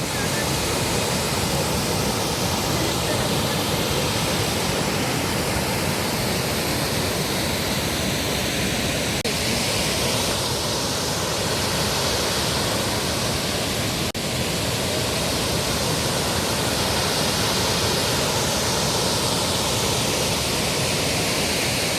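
Chitrakote Falls, a broad waterfall, pouring with a steady, even rushing roar of falling water.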